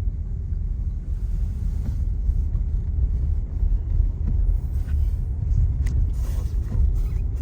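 Steady low rumble of a car being driven, heard from inside the cabin, with a faint click about six seconds in.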